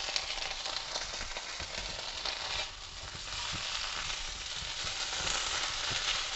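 Soya chunks, capsicum and onion sizzling in a hot nonstick wok as chilli sauce goes in and a spatula stirs them, with light scrapes and taps of the spatula on the pan. The sizzle dips briefly about three seconds in, then grows louder again.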